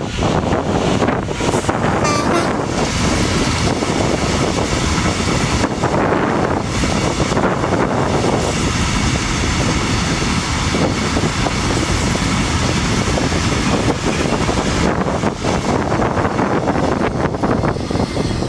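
A train running past on the rails, a steady loud rumble and rail noise, with wind buffeting the microphone.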